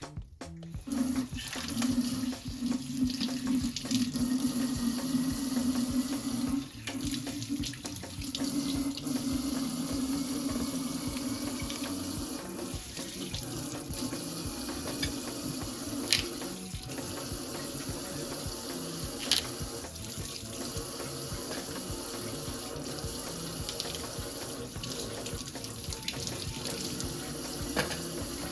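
Water running from a tap into a sink, starting about a second in and running steadily, with a couple of light knocks or clinks later on.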